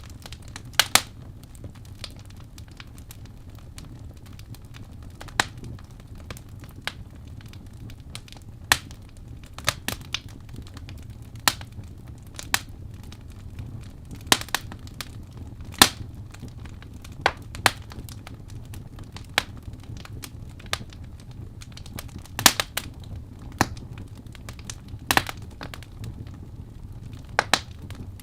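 Wood fire burning in a fireplace, the logs crackling with sharp, irregular pops about once a second over a low, steady rumble of the flames.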